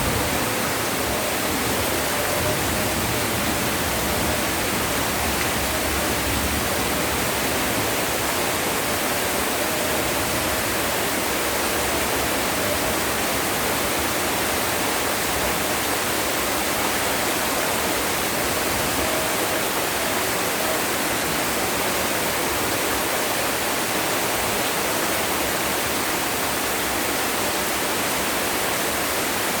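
Heavy rain pouring down, making a dense, steady hiss.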